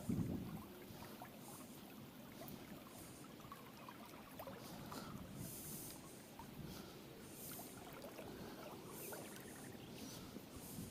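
Faint wind and river noise, with a brief low thump right at the start.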